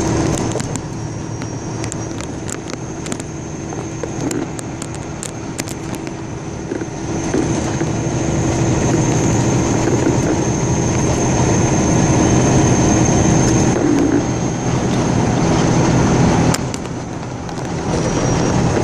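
A vehicle engine running with road noise, getting louder about seven seconds in and easing off near the end. Scattered clicks come in the first few seconds.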